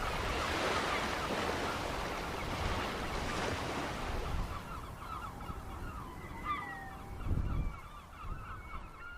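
Surf washing on the shore, fading over the first few seconds, under a flock of mutton birds (wedge-tailed shearwaters) calling over and over with short, quick cries and a few longer gliding ones.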